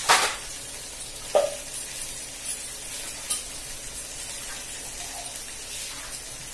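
Sliced tomatoes tipped into a hot nonstick pan of frying onions and herbs, sizzling in the oil. A loud burst right at the start and a few sharp knocks in the first few seconds, then steady sizzling.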